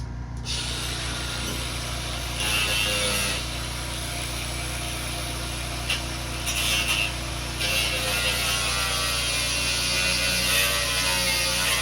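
A power tool cutting a pocket out of a lawnmower's housing to get at the throttle, with a steady hum underneath. The cutting noise gets louder in stretches, about two seconds in, briefly around seven seconds, and again from about eight seconds on.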